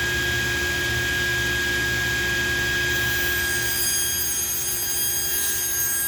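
Table saw motor running steadily at full speed, with a high, even whine.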